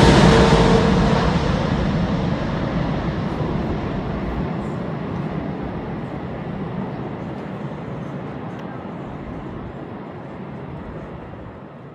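Jet airliner's engine noise fading away after it passes: a steady rumble that slowly dies down, its higher part thinning out first.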